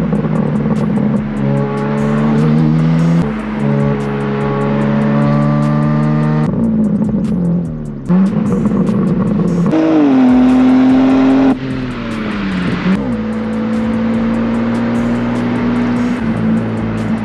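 BMW M3 Competition's twin-turbo straight-six pulling through the gears, its pitch rising in steps and then falling away as it slows about halfway through, with another short rise and fall later. Music with a steady beat plays along.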